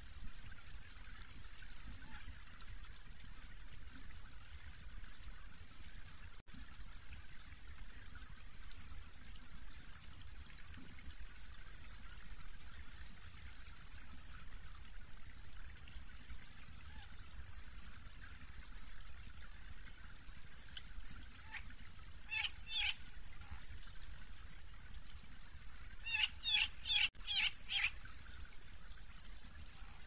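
Small birds calling: thin, high, short calls scattered throughout, with louder runs of rapid chirps about two-thirds of the way in and again near the end. A steady hiss and low rumble run underneath.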